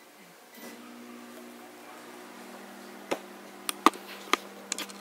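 A steady hum from the newly built desktop computer begins about half a second in. Several sharp clicks come in the second half.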